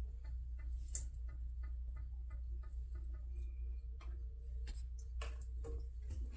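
Steady, even ticking, about four ticks a second, over a low steady hum.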